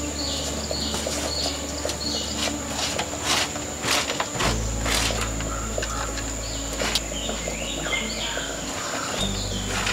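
Small birds chirping again and again in short high calls, with a steady thin high whine underneath and a few sharp light clicks.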